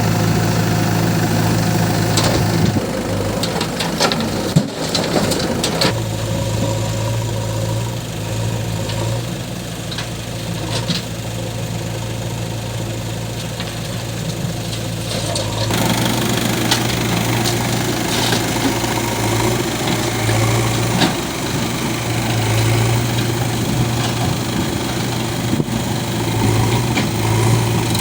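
Heavy diesel engine running at a low, steady speed, with a few sharp knocks a few seconds in; its note shifts and grows fuller a little past halfway.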